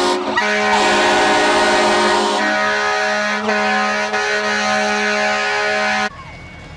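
Fire truck air horns sounding in a long steady chord, shifting slightly a couple of times, then cutting off abruptly about six seconds in.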